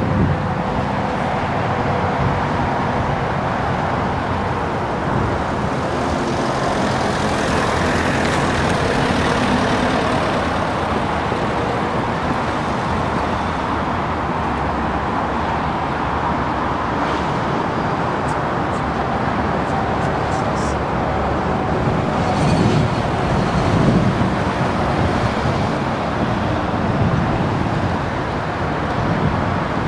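A train running over the level crossing: a steady rolling rumble with occasional faint clicks from the wheels.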